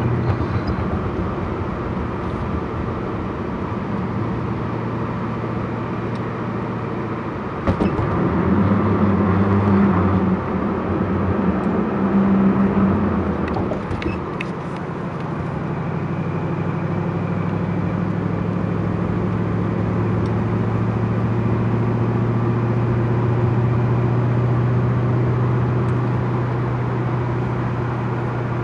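Twin-turbocharged 5.4-litre V8 of a Ford GT running steadily under way. From about eight seconds in it gets louder and higher for about six seconds, then settles back to a steady cruising note.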